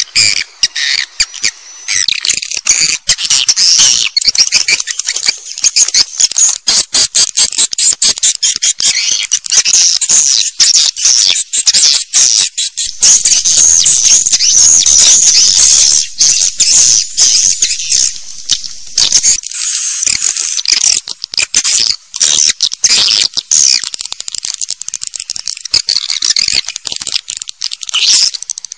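Swiftlets twittering in a dense stream of high, rapid chirps and trills: a swiftlet-call recording of the kind played as a lure sound for swiftlet nesting houses.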